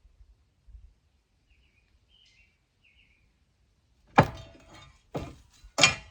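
Three sharp metallic strikes, each ringing briefly, about four, five and nearly six seconds in; the first and last are the loudest. Before them, a few faint bird chirps.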